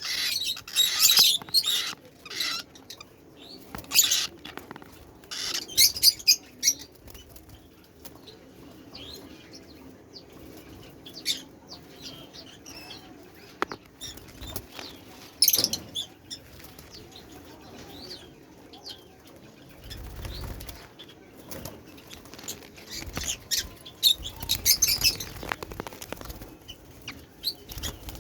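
Lovebird chicks calling in short, high-pitched, scratchy bursts that come in scattered clusters with quieter stretches between.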